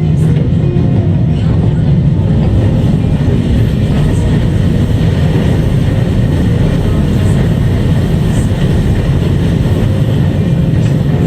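Seoul Subway Line 2 train running steadily at speed, a continuous low rumble.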